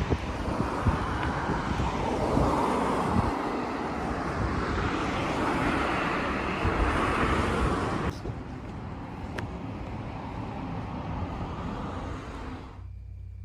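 Road traffic outdoors: the rushing noise of cars passing, swelling for a few seconds and then giving way to quieter, steadier traffic noise. It changes abruptly about 8 seconds in and falls to a low hum near the end.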